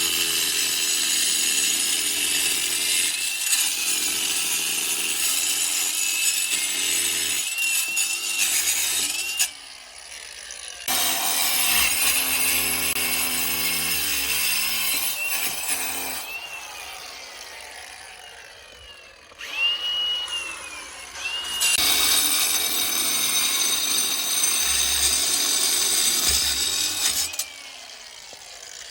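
A power saw cutting in several long runs, with short pauses about ten seconds in and again in the middle. Its motor whine dips and rises as it bites under load.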